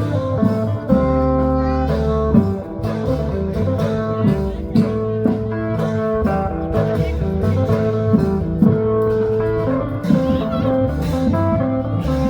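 Live festive band music: a plucked-string melody with held notes over a steady drum beat.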